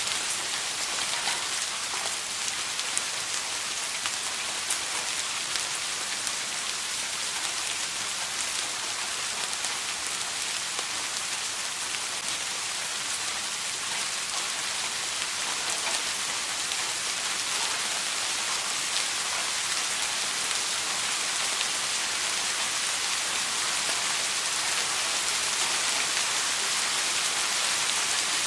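Steady rain falling on a surface, a dense even hiss with scattered individual drops.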